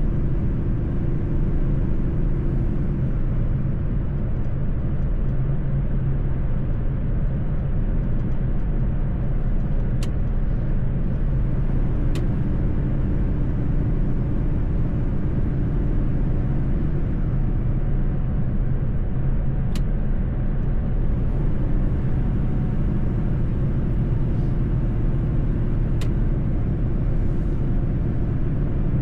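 Mercedes-Benz truck driving at a steady speed: an even engine and road rumble, with a few faint clicks.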